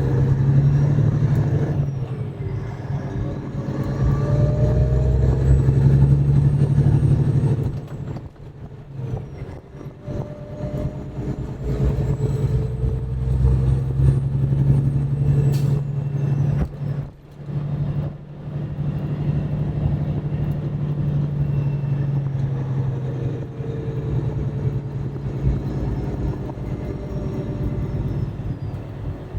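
Semi truck's diesel engine pulling through the gears: the pitch climbs with a faint high whine rising alongside, dips briefly at the shifts about eight and seventeen seconds in, then climbs again before settling into a steady run.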